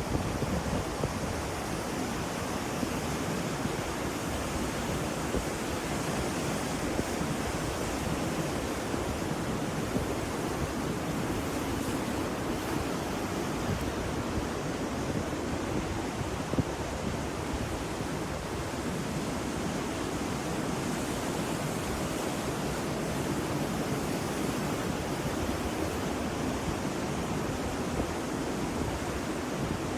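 Ocean surf: a steady, even wash of wave noise with no distinct breaking crashes.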